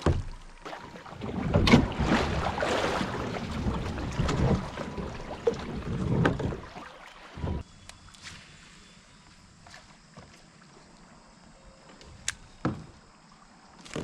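Kayak on a river: paddle splashing and hull knocks, loud and busy for about the first seven seconds, then quieter with a few sharp knocks.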